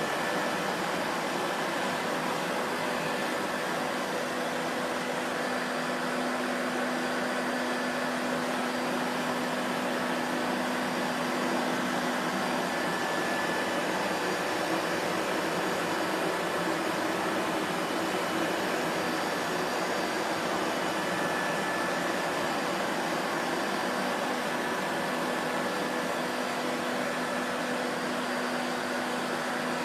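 Vacuum cleaner motor running steadily, a continuous whooshing drone with a faint hum that comes and goes.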